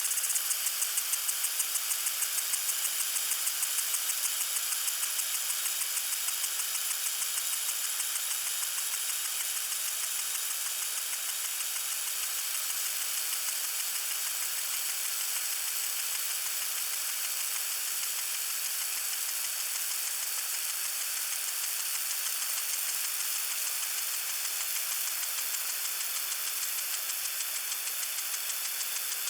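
Water sprinkler spraying: a steady high hiss of water with a fast, even ticking pulse, plainest in the first few seconds.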